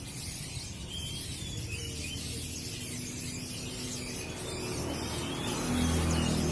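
Many small caged songbirds chirping and twittering at once in a rapid, ratchet-like chatter. A low hum grows louder near the end.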